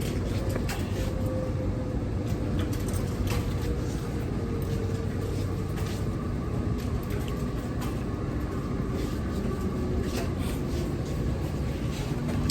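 A steady low mechanical rumble, with a faint hum that slowly falls in pitch and scattered light clicks and knocks.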